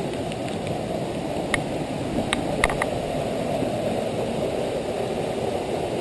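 Waterfall rushing steadily in the gorge, a constant low roar of falling water. A few sharp clicks come near the middle.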